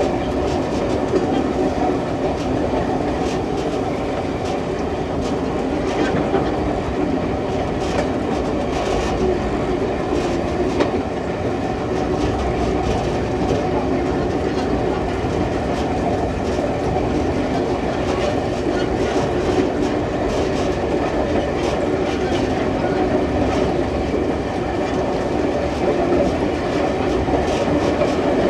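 Passenger railroad cars rolling along the track: a steady rumble of steel wheels on rail with occasional clacks.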